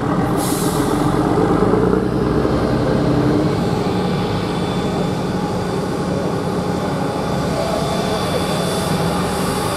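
Heavy truck's diesel engine running steadily, its note changing about three and a half seconds in.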